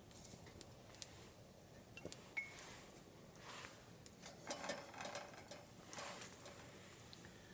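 Quiet handling sounds: scattered light clicks and knocks, a short metallic clink about two and a half seconds in, and brief rustling in the middle.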